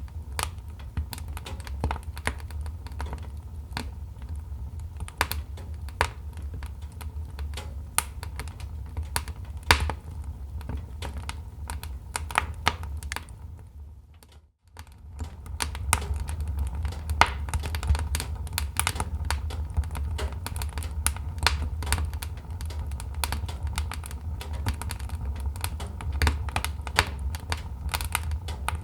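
Wood fire crackling in a fireplace: a dense run of irregular sharp pops and snaps over a low steady rumble. About halfway through, the sound fades out briefly and comes back.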